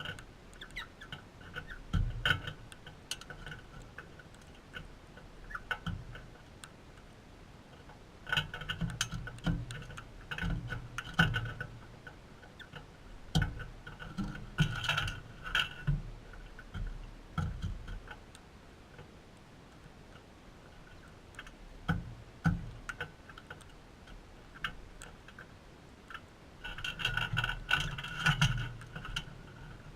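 Galahs feeding: irregular clicks and taps of beaks pecking and cracking seed, busiest in a stretch about 8 to 16 seconds in and again near the end.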